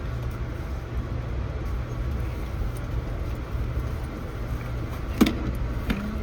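Steady low rumble of a moving passenger train heard from inside the coach, with a sharp knock about five seconds in and a lighter click just after.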